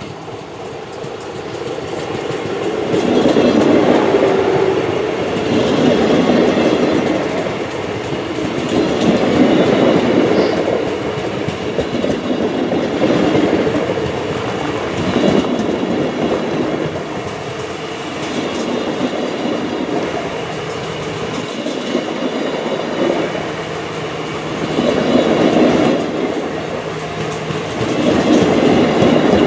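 Double-deck passenger train passing close by. Its sound builds over the first few seconds as it approaches, then swells and fades every two or three seconds as the coaches roll past.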